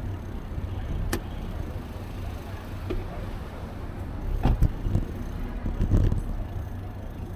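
Low rumble of wind and road noise from a moving bicycle, with a few short knocks about a second in, then again near four and a half and six seconds.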